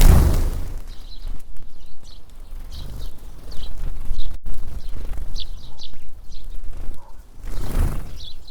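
Wind buffeting the microphone in gusts, strongest at the start and again near the end, with short high chirps of tits calling throughout.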